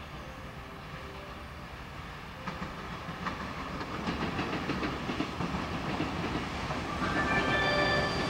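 Freight train headed by an EF210 electric locomotive approaching through the station and growing steadily louder. It has a few sharp clicks of wheels over rail joints, and a cluster of short high tones near the end.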